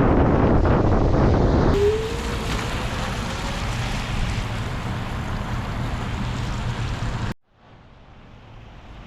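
Wind buffeting the microphone during an electric scooter ride in the rain, a dense rumbling rush. It cuts abruptly to a quieter rushing stretch with a faint rising whine about two seconds in, then cuts again to a moment of near silence near the end.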